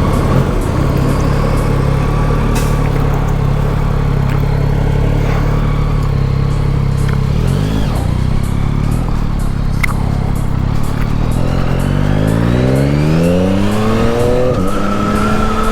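2021 Yamaha MT-09's 890 cc inline-three engine running under way at a steady note, heard from the rider's position. About twelve seconds in it accelerates, its pitch rising for a couple of seconds, then drops back and settles.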